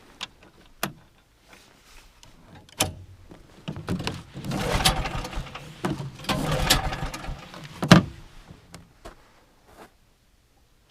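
Recoil pull-starter of a small snowmobile being yanked, with a few clicks and then a few seconds of rattling as the engine turns over without catching, ending in a sharp knock: the engine is failing to start.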